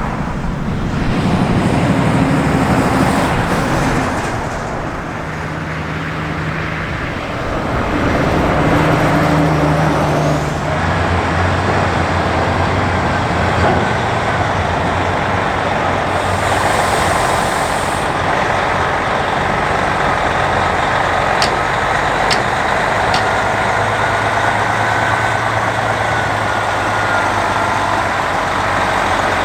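Diesel engine of a Kenworth cabover truck running as the truck moves, its pitch shifting over the first ten seconds and then holding steady. A brief high hiss of air comes about sixteen seconds in.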